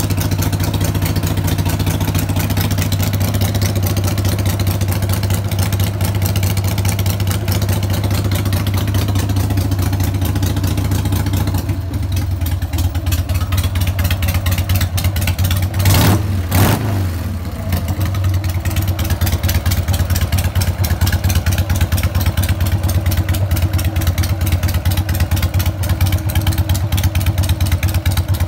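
Harley-Davidson XL883 Sportster's air-cooled V-twin idling through aftermarket exhausts with a steady, lumpy beat. About halfway through, the throttle is blipped briefly: the revs rise and fall, then settle back to idle.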